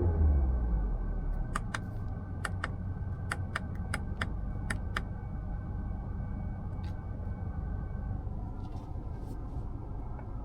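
Low steady rumble of the Mazda CX-5 with its engine running, heard inside the cabin, with a run of about ten sharp clicks, some in pairs, from about one and a half to five seconds in.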